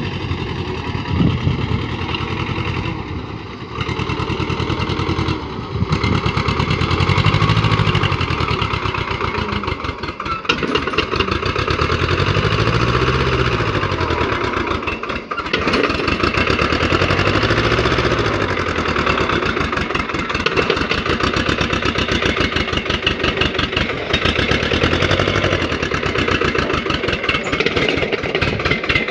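Swaraj 724 tractor's two-cylinder diesel engine running, its speed rising and falling about four times as it is revved up and back down.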